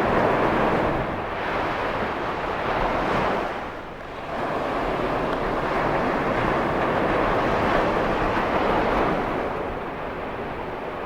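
Ocean surf breaking and washing ashore, a steady rushing that eases about four seconds in and then swells again, with wind buffeting the microphone.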